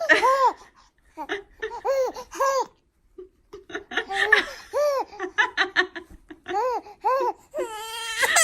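Young child laughing in repeated high-pitched bursts, with short pauses between them.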